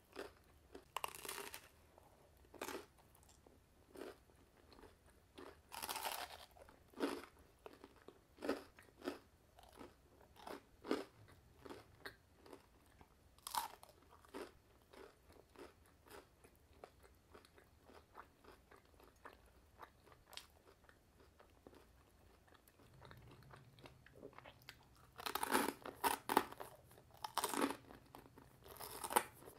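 Close-up chewing of crisp, oven-toasted frozen panini bread: irregular crunches and wet mouth sounds, with a louder run of them near the end.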